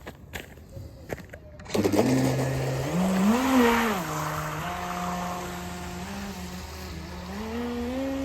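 UDIO22 RC speedboat's water-cooled outrunner electric motor, on a 3S battery, starting up about two seconds in with a burst of hissing spray. It then whines steadily, the pitch rising and falling with the throttle. A few light clicks come before it starts.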